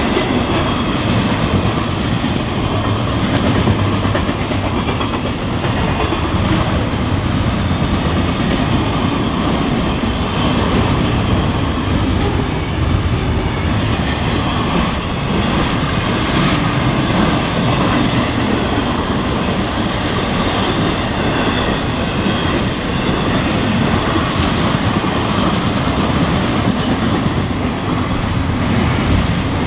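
Freight train of double-stack container well cars rolling past close by: a steady, loud rumble of steel wheels on the rails with a clickety-clack of wheels over the track.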